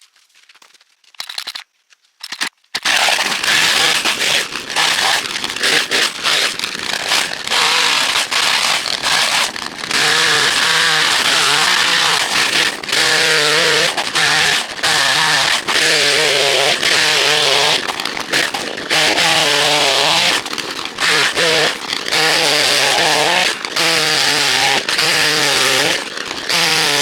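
Two-stroke chainsaw coming in loud about three seconds in and running at high revs. Its pitch wavers up and down with short dips as it works through wood. A few faint crackles come before it.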